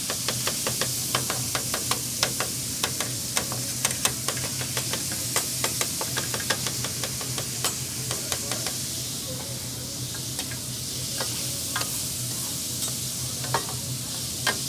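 Chopped-cheese meat sizzling on a grill while metal spatulas chop and scrape it against the cooking surface: a quick, irregular run of sharp clicks over the frying hiss, thinning out in the second half.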